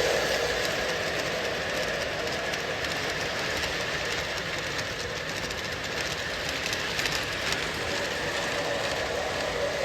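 O scale Lionel Lion Chief Dash 8 model locomotives pulling a long train of tank cars along the track: a steady rolling rumble with faint, quick clicking from the wheels.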